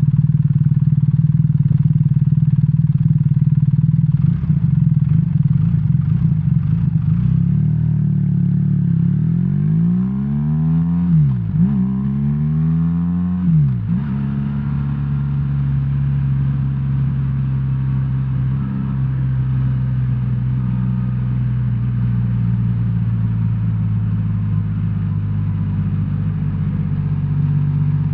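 BMW R1300R's boxer twin engine running under way. About a third of the way in it revs up, the pitch rising and then dropping sharply twice as it shifts up through the gears, before settling to a steady cruise.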